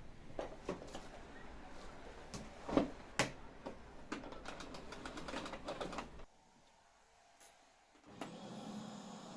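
A run of light clicks and knocks from household things being handled, with two louder clacks about three seconds in. It cuts off sharply about six seconds in, and a low steady hum comes in near the end.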